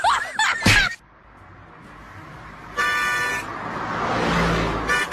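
A wailing, whimpering voice in the first second, then a single steady horn honk about three seconds in, followed by a rising whooshing hiss.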